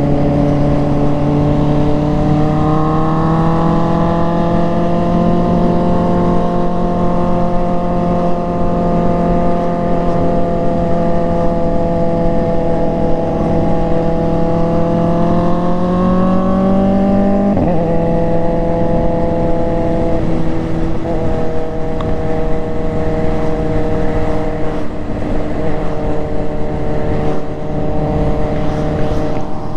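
Motorcycle engine running under way, its pitch slowly rising as it gathers speed. A little past halfway a gear change drops the pitch suddenly, and it then holds a steady cruise. Steady wind rush on the microphone runs underneath.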